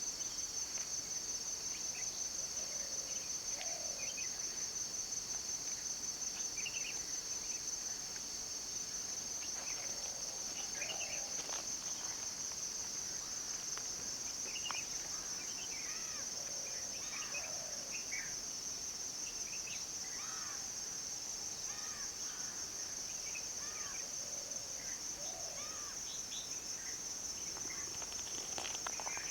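A steady, high-pitched chorus of insects, crickets or cicadas, trilling without a break, with many short scattered bird calls and chirps over it.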